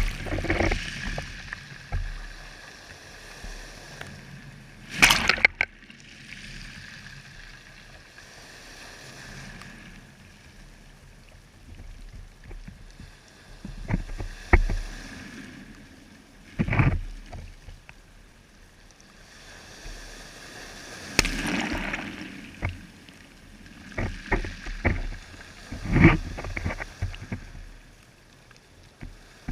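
Water splashing and sloshing in sudden, irregular surges several seconds apart, over a quieter steady wash.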